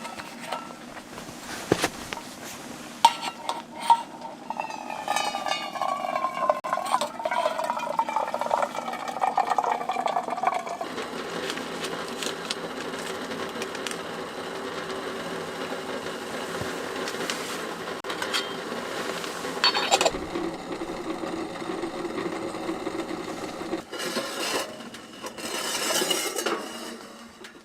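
Metal cookware and utensils clinking, with liquid poured into a vessel for several seconds about 4 seconds in, its pitch rising as it fills.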